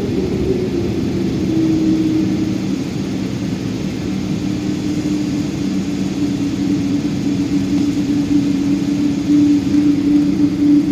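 Boeing 777-200 jet engines heard inside the passenger cabin: a steady hum with two held tones over a low rumble.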